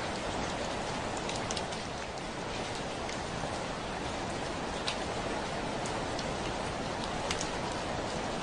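Heavy rain pattering steadily on a window pane, with single louder drops ticking against the glass every so often.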